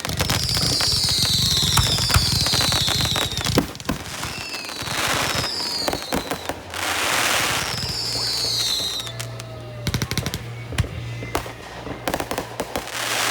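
Fireworks going off: dense rapid crackling, several whistles that fall in pitch over about a second each, and a few rushing hissing bursts.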